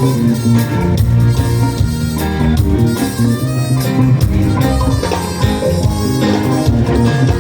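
Live band playing an instrumental passage between sung lines, with bass, drums and sustained keyboard or guitar chords at a steady beat.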